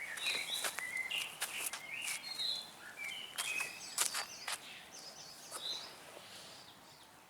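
Small birds chirping: many short, high notes of varying pitch, with scattered sharp clicks and taps among them.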